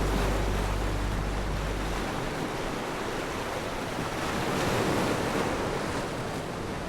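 Ocean surf washing onto a beach, one wave swelling louder about five seconds in. A low held note of background music ends about two seconds in.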